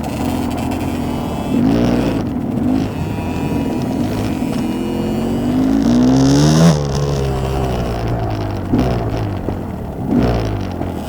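Enduro motorcycle engine under riding load, its pitch rising and falling with the throttle, with one long rise of revs a little past halfway that drops away sharply.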